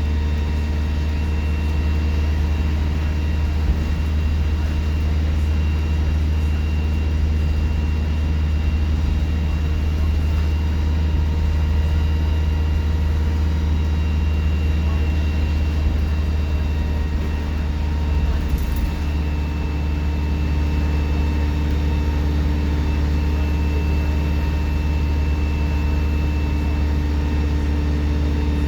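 Alexander Dennis Enviro 200 bus engine running at a steady speed: a deep drone with a steady high-pitched turbo whistle above it. A single brief knock comes about two-thirds of the way through.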